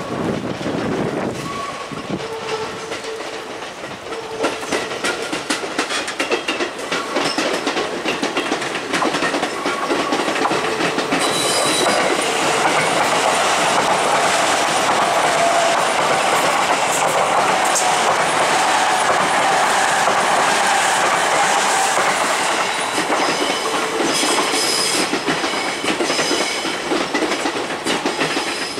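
Sotetsu electric commuter train passing close at speed, its wheels clattering over rail joints, with brief high-pitched wheel squeal. The noise builds about eleven seconds in and stays loud and steady as the cars go by.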